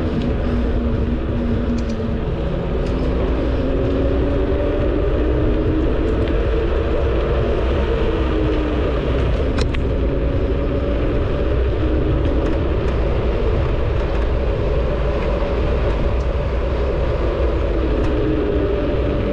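Wind rushing over the microphone on a moving bicycle, with a steady rumble and a low hum that slowly wavers in pitch. A faint click sounds about halfway through.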